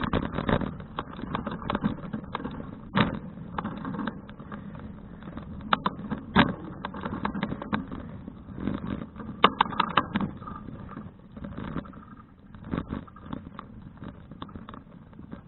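Folding bicycle being ridden over a rough surface: a steady low rumble with many sharp rattles and knocks, a few of them louder.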